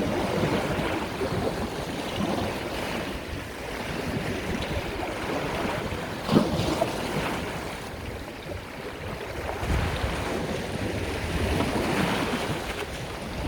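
Sea waves washing in and out, swelling and ebbing every few seconds, with a sharper splash about halfway through. Low gusts of wind rumble on the microphone.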